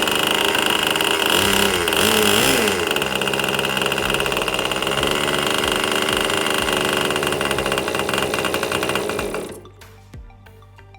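Magnum GP 15 2.5 cc two-stroke glow (nitro-fuel) model aeroplane engine running at high revs with its propeller spinning, a steady high-pitched buzz with a brief wobble in pitch about two seconds in. It cuts off suddenly near the end.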